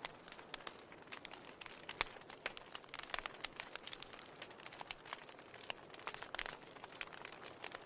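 Wood fire crackling, with irregular sharp pops and snaps over a faint hiss; the loudest pop comes about two seconds in.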